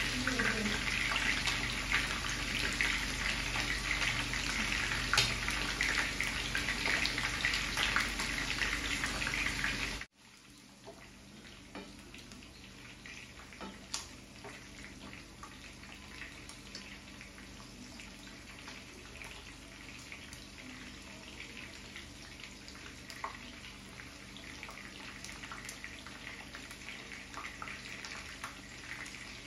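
Chicken pieces and onion sizzling and crackling in hot oil in a frying pan. About ten seconds in the sound cuts abruptly to a much quieter sizzle, with the occasional click of a wooden spatula against the pan as the pieces are turned.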